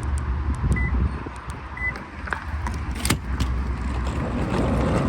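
A car running with a steady low rumble. Two short electronic beeps about a second apart come near the start, and there is a sharp click about three seconds in.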